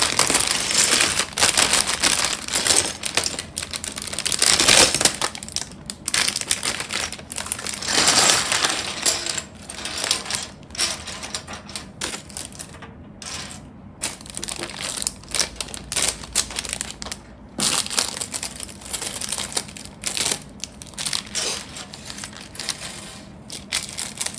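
Plastic Lego pieces clicking and clattering as they are handled and fitted together, with several bursts of rustling.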